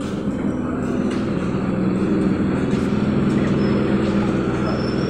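Electric multiple-unit suburban local train rolling slowly along the platform as it brakes to a stop, with a steady low hum.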